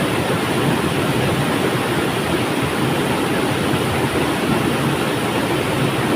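Flowing river water rushing steadily, an even, unbroken wash of noise with no separate splashes.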